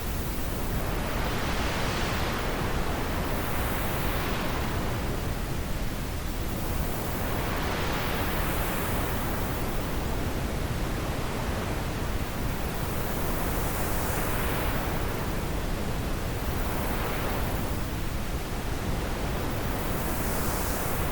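Wind blowing as a steady rush, with gusts that swell and fade every few seconds.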